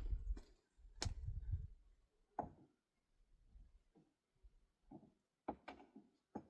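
A few scattered knocks and thuds of handling work, with a sharp click about a second in and a low rumble during the first two seconds.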